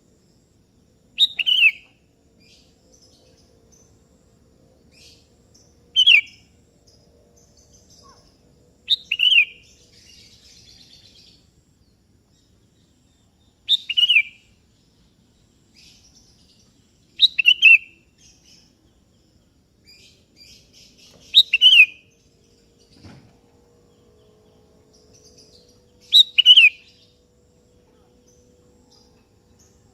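Sooty-headed bulbul (kutilang) calling: seven short phrases of a few quick notes, each falling in pitch, repeated every three to five seconds.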